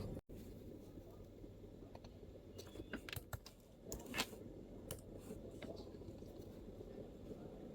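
MacBook keyboard being typed on: a loose run of soft keystrokes, busiest from about two and a half to five seconds in, over a steady low background hum.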